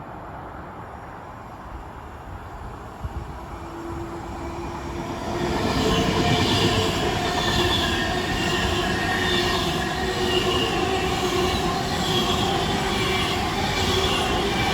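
A train running past along the platform. It grows loud about five seconds in and stays loud, with rail noise and high ringing wheel tones.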